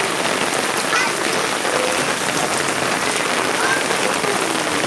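Heavy rain falling steadily on surfaces, with faint voices calling briefly a few times.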